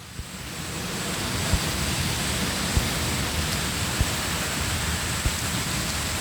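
Steady electronic hiss that builds up over the first second and then holds, with a few faint clicks.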